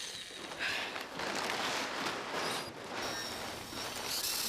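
Robot sound effects: a busy mechanical whirring and clattering, turning choppy near the end.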